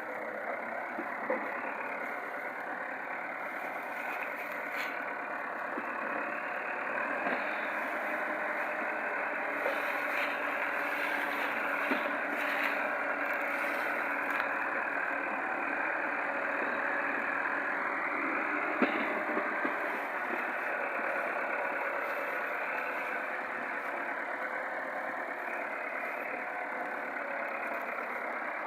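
Tractor engine running steadily, with a few faint clicks over it.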